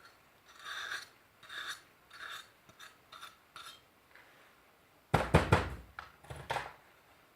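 Short scraping strokes stripping chemically softened paint from an old Elna grinder's metal parts, about one stroke every half second to a second, then a cluster of loud metallic clattering knocks about five seconds in, the loudest sound, and one more knock soon after.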